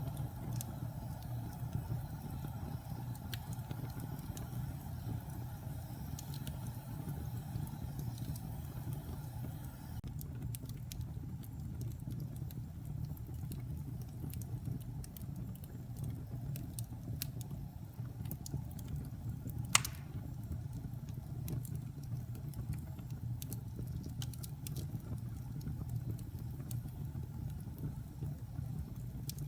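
Wood fire burning in a fireplace: a steady low rumble of flames with scattered small crackles, and one sharp, loud pop about twenty seconds in.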